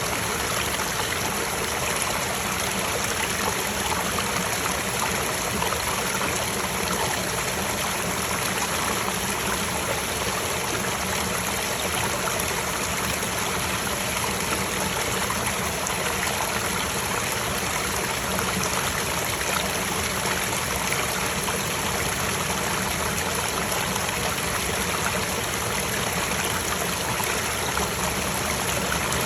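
Small stream running over mossy rocks, a steady even rush of water.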